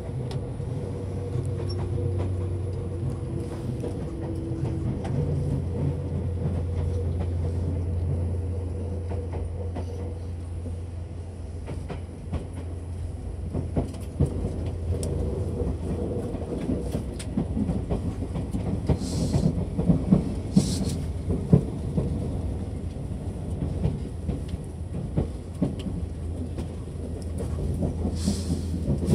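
Running sound heard inside a Seibu Red Arrow limited express car: a steady low hum with a faint held tone, and wheel clicks over rail joints from about halfway through. Brief hisses come a few times in the second half.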